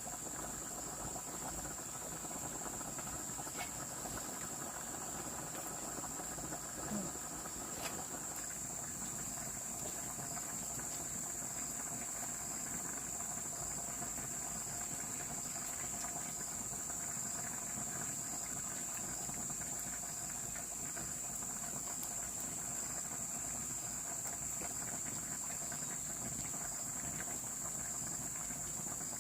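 Steady high-pitched insect drone, unchanging throughout, with a brief faint knock about seven seconds in.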